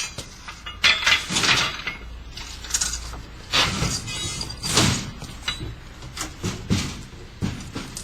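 Irregular series of sharp knocks and clinks, hard objects striking, about one to two a second, some with a brief ring, over a low steady hum.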